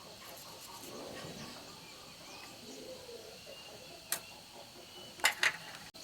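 Three sharp clicks or taps, the last two close together near the end, over a faint background with a few short bird chirps.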